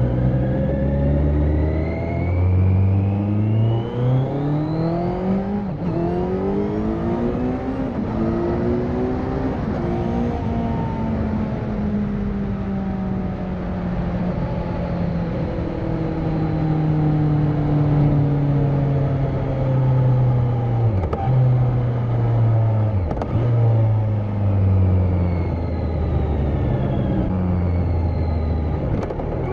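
Kawasaki Z900's inline-four engine with its catalytic converter removed, under way: the engine note climbs for about ten seconds with two short breaks in pitch, like gear changes. It then slowly falls, with two quick dips near the end, and settles to a lower steady note.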